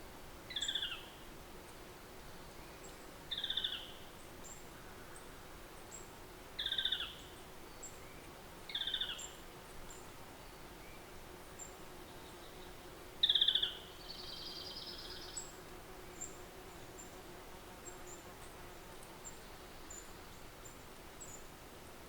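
A bird repeating a short, falling call five times, a few seconds apart, against faint high chirping in the background.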